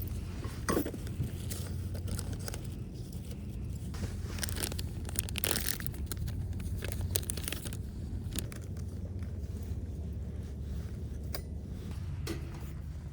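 Scattered scrapes and clicks, loudest about a second in and again around the middle, over a steady low rumble.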